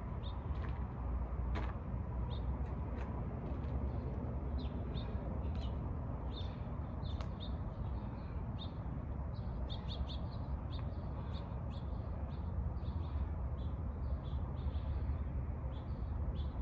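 Small birds chirping, many short high chirps coming thick and fast from a few seconds in, over a steady low rumble.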